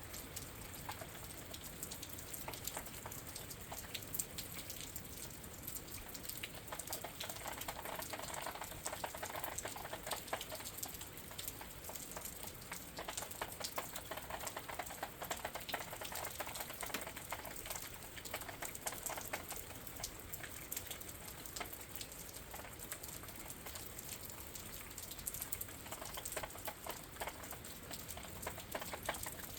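Rain falling steadily with a dense patter of drops, heard from indoors through a window, heavier for a stretch in the middle.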